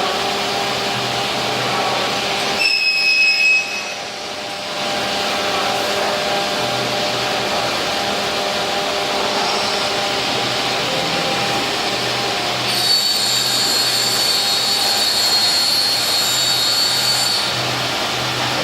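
Weeke BMG 111 CNC wood-drilling machining centre running: a steady mechanical hiss and hum, with a short high-pitched whine about three seconds in and a longer high whine from a little past the middle until near the end.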